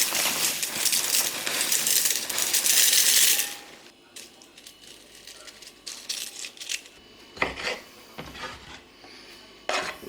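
Dry cornflakes poured into a bowl, a dense rattling clatter that stops about three and a half seconds in. Scattered soft clinks and a few dull knocks follow.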